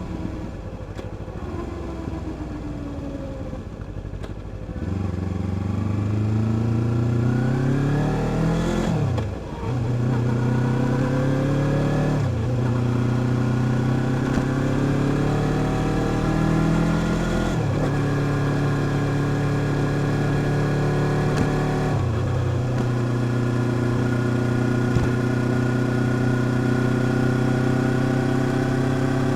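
Vehicle engine accelerating through the gears: the pitch climbs and drops sharply at four upshifts, then holds steady at cruising speed for the last several seconds.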